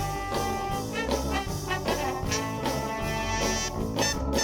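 Live band playing an instrumental break between sung lines, a brass section holding notes over bass and drums.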